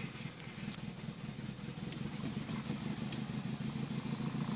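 Honda B18B 1.8-litre four-cylinder engine running rough and uneven just after a cold start, not firing on all four and loading up a cylinder, which the owner guesses is partly down to a bad MAP sensor. It gradually gets louder.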